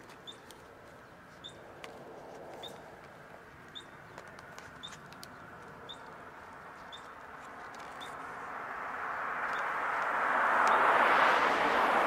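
A small bird repeats a short, high chirp about once every three-quarters of a second. In the second half a vehicle passes, its tyre and road noise swelling to the loudest point near the end and then starting to fade.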